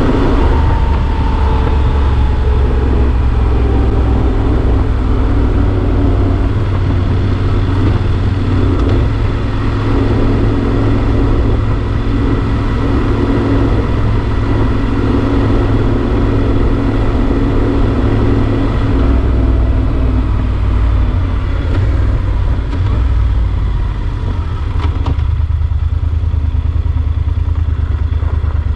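Yamaha XT1200 Super Ténéré parallel-twin engine running on the move at a steady pace, its pitch easing down in the first few seconds.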